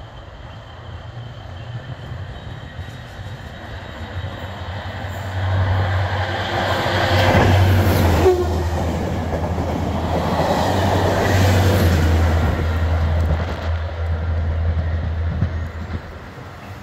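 Network Rail test train, hauled at each end by a GB Railfreight Class 73 electro-diesel locomotive, passing at speed. A low, steady engine drone and the rumble of the wheels on the rails build up, stay loud for about eight seconds as the coaches go by, then fade as the rear locomotive pulls away.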